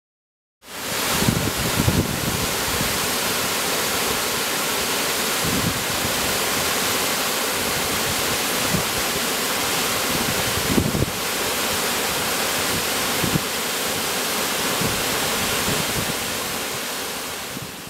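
Waterfall pouring, a steady rush of water from a big rain-fed pour-off. It cuts in under a second in and fades out at the end, with a few brief low thumps.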